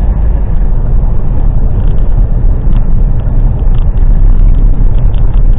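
Articulated lorry running on the road, heard from inside the cab: a loud, steady low rumble of engine and road noise.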